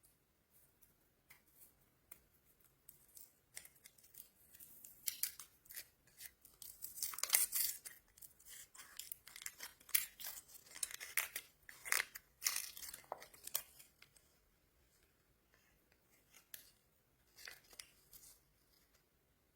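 Plastic candy wrapper being torn open and crinkled close up: crisp crackling and tearing, busiest in the middle and trailing off to a few rustles near the end.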